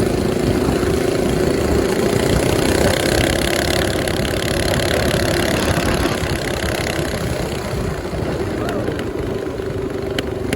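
Mini bike's small engine running steadily, with a constant engine tone over a dense low rumble; it eases off slightly near the end.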